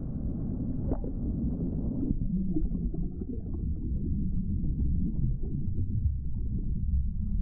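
Waterfall roaring: a steady low rumble of falling water.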